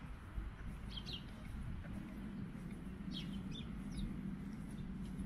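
Songbirds giving short high chirps, a couple about a second in and a few more around three to four seconds, over a steady low background rumble.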